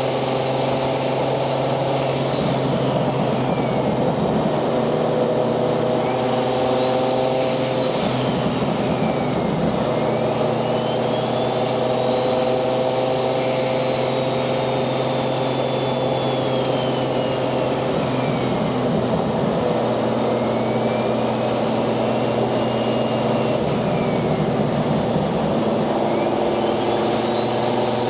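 Turbocharged Toyota 1JZ VVTi straight-six in a Nissan 240SX running at a steady cruise. A high turbo whistle glides up and falls away again several times as the throttle is eased on and off.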